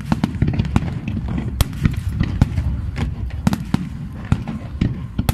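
Aerial fireworks bursting in rapid, irregular succession, many sharp bangs and crackles over a constant low rumble of distant explosions.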